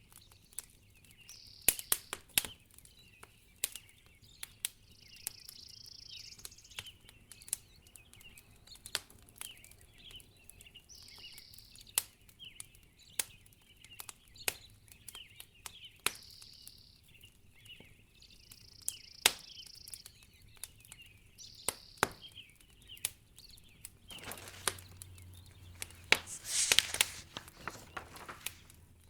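Wood fire crackling in a fireplace, with irregular sharp pops. Behind it a high trill repeats every couple of seconds with faint chirps, and near the end a brief rushing swell rises and fades.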